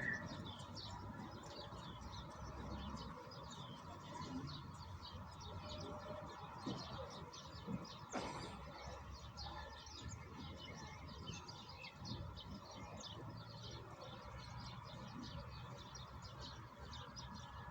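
Small birds chirping in a rapid, continuous twitter over the steady hiss of falling rain, with one sharp click about eight seconds in.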